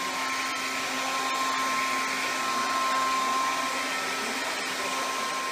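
Homemade vacuum cleaner built from plastic cups and a hose, running: a steady whirring hiss with a constant whine.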